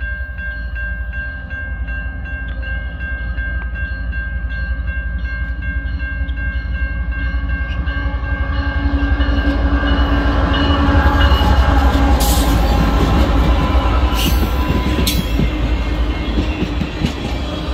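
BNSF diesel locomotive approaching and passing with a hopper car and a passenger car, its low engine rumble growing to its loudest about ten to twelve seconds in, with a few sharp wheel clanks as the cars roll by. Over the first half, a grade-crossing bell rings steadily.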